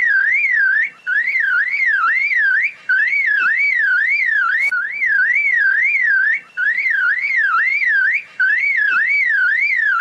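A bird mimicking a car alarm: a warbling whoop that rises and falls about three times a second, in phrases of about two seconds separated by short breaks.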